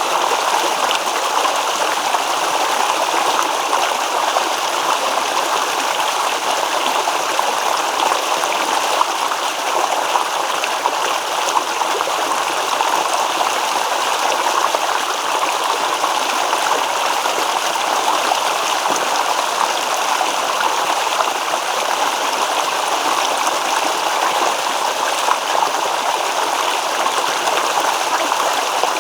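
Small stream babbling and rippling over rocks, a steady, even rush of water.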